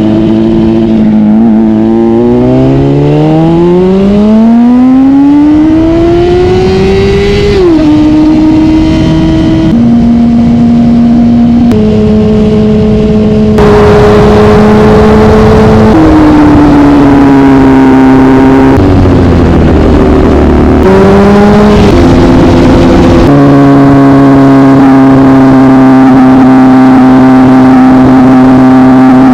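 Honda CBR600RR inline-four engine under way: the revs climb steadily for about five seconds, drop sharply at a gear change, then hold at several steady engine speeds with abrupt steps between them, settling into a steady cruise for the last several seconds.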